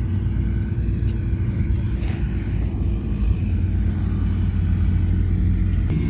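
Heavy diesel engine of earthmoving machinery running steadily with a low rumble, with a short sharp click about a second in and another near the end.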